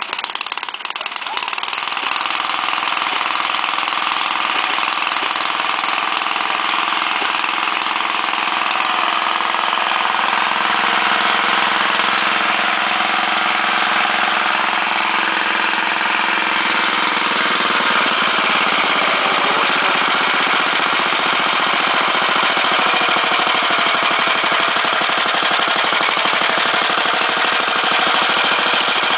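Acme VT-88 15 hp engine of a BCS self-propelled finger-bar mower running continuously, with a fast mechanical rattle over the engine note. It gets a little louder about ten seconds in.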